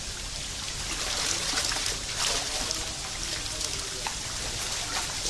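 Water trickling and splashing as fish are released from a fishing net, with small splashes scattered through a steady pour of water.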